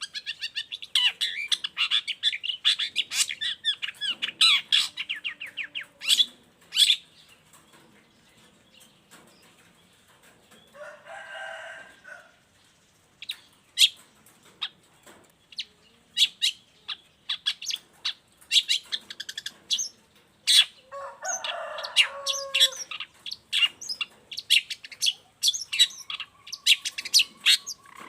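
Long-tailed shrike singing: a fast, dense chattering run of high notes at the start, then sharp separate high calls. Two harsh, rasping calls of about a second and a half each come around 11 and 21 seconds in.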